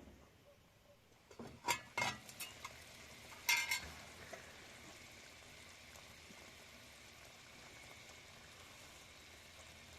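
Food frying and sizzling, a steady faint hiss, with a few sharp clinks of a utensil between about one and a half and four seconds in.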